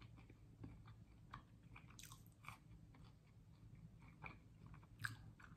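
Faint close-up chewing of a crisp criss-cut fry, with soft crunches every second or so.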